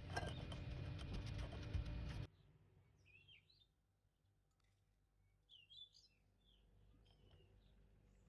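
About two seconds of loud clicking noise that cuts off suddenly, followed by faint bird chirps: several short, quick twittering calls.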